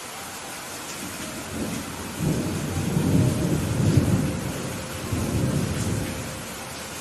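Steady rain hissing, with a rolling thunder rumble that builds about two seconds in, peaks midway, swells once more and dies away near the end.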